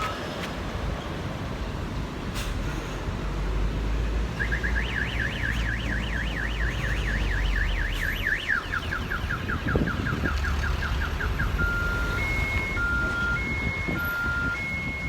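Car alarm sounding through its cycle of tones, starting about four seconds in: a fast up-and-down warble, then quicker falling sweeps, then a steady high-low two-tone alternation. A low traffic rumble runs underneath.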